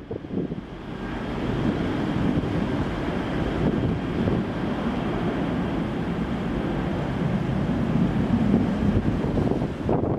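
Steady rumbling roar of jet airliner noise mixed with rushing air. It builds over about the first second, then holds steady.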